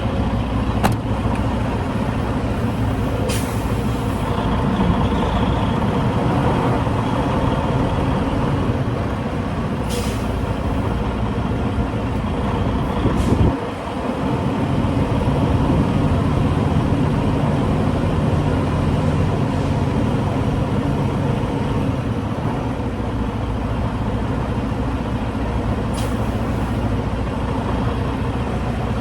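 Semi truck diesel engine running steadily, with a few short, sharp air hisses, one of them followed by a brief drop in the engine's sound about halfway through.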